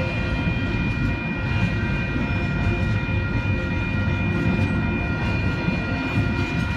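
Double-stack intermodal train's container cars rolling through a grade crossing: a steady rumble of wheels on rail, with steady high-pitched tones sounding over it throughout.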